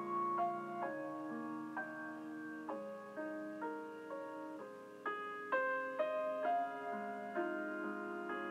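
Slow, gentle solo piano music, notes struck one after another and left to ring.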